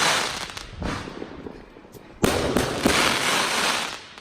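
Fireworks going off: the crackle of one burst fades over the first second, then a sharp bang a little after two seconds is followed by nearly two seconds of crackling that dies away near the end.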